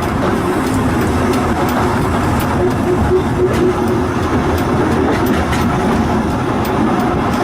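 Volk's Electric Railway car running along its track: a steady rumble with irregular clicks from the wheels and a steady hum that fades in and out.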